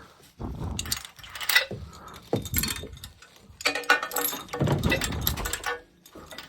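Steel hoisting chain rattling and clinking in irregular bursts as it is unhooked and re-hooked, with a ringing metal clank about four seconds in.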